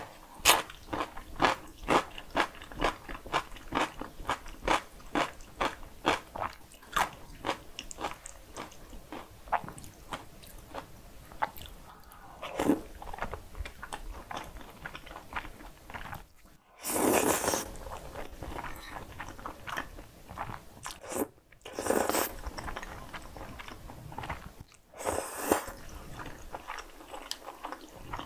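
Close-up crunching as a cucumber pickle is chewed, about two crunches a second, fading out after ten seconds or so. Later come three loud slurps of cream-sauce spaghetti.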